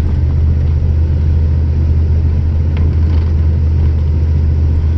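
Steady low drone of a vehicle driving on a snowy road, heard from inside the cab: engine and tyre noise.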